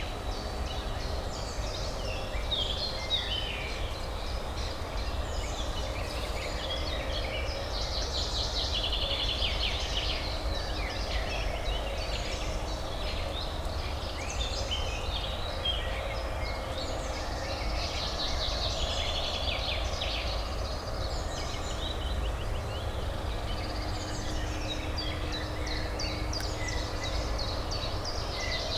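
Many small birds chirping and trilling over a steady low city hum.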